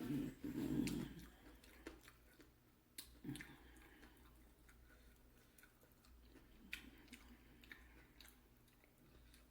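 Close-up chewing and biting of fried chicken: a louder stretch in the first second, then quieter chewing with scattered small clicks.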